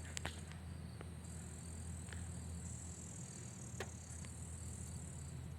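Faint scattered metal clicks and taps from working at a rust-seized brake caliper slider pin that will not move, over a steady high-pitched whine and a low hum.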